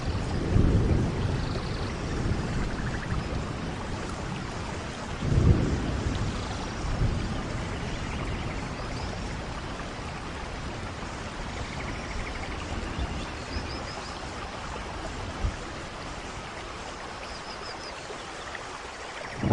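Steady rain falling, with low rumbles of thunder: one just after the start and a louder, sharper clap about five and a half seconds in, then rain alone.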